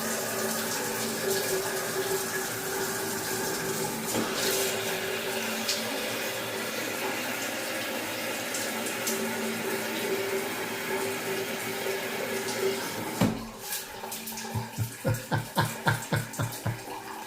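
Water running from a Delta shower head with a steady hiss and a faint hum. About 13 seconds in there is a sharp knock and the flow drops off, followed by a quick run of about four soft pulses a second. This fits a spray setting that lets hardly any water through.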